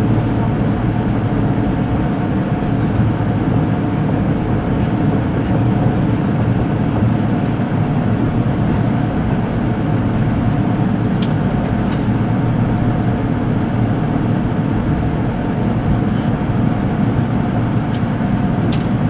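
Running noise heard inside a car of a JR 485 series limited express electric train under way: a steady low rumble of wheels on rail, with a faint steady tone above it and a few light ticks in the second half.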